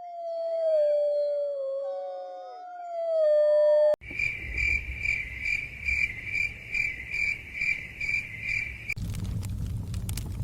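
Several wolves howling in overlapping, slowly falling calls. After a sudden cut, a cricket chirps in even pulses about twice a second. About nine seconds in, another cut brings a fire crackling over a low rumble.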